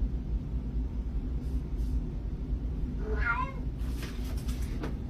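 A cat meows once, about three seconds in, over a steady low background rumble, followed by about a second of rustling.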